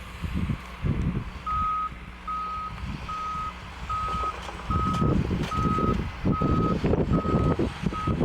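A vehicle's backup alarm beeping on one steady tone, nine beeps at a little more than one a second, starting about a second and a half in. Underneath runs a low rumble that grows louder about halfway through.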